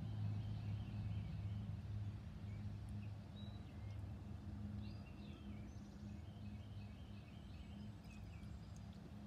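Small birds chirping in short repeated phrases over a steady low hum.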